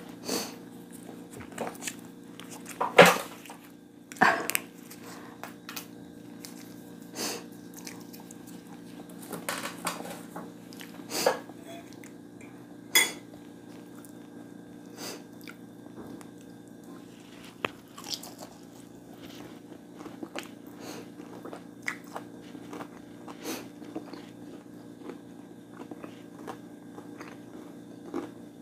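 Close-up chewing and biting of food, mukbang style, with irregular wet mouth clicks and crunches; the loudest crunches come about 3, 4.5, 11 and 13 seconds in. A steady low hum runs underneath.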